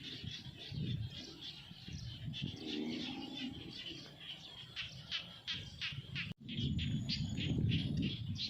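Birds chirping: a rapid series of short, high chirps, with a lower call about three seconds in and an abrupt break about six seconds in.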